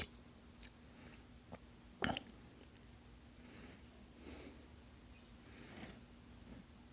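Faint chewing and mouth noises from someone eating French fries, with soft breaths through the nose and a few small clicks, the sharpest about two seconds in. A faint steady hum sits underneath.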